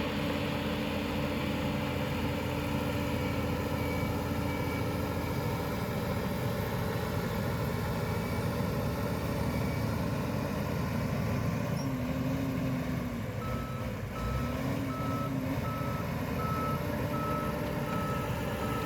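Heavy construction machine's diesel engine running steadily; a little over two-thirds of the way in, its reversing alarm starts beeping at an even pace, about one and a half beeps a second.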